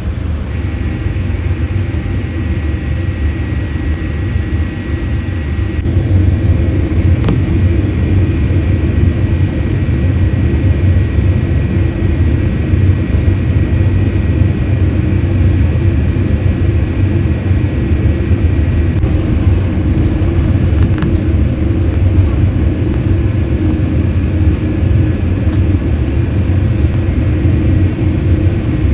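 Cabin noise inside a Boeing 787-8 airliner: a steady low rumble of the jet engines and airframe, stepping up in loudness about six seconds in.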